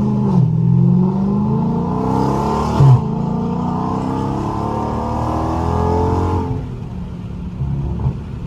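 Straight-piped Dodge Charger Scat Pack's 6.4-litre HEMI V8 pulling at wide-open throttle with no catalytic converters, the revs climbing through the gears. The pitch drops at an upshift just after the start and again about three seconds in, where there is a brief sharp bark. The revs then climb once more until the throttle is lifted about six and a half seconds in.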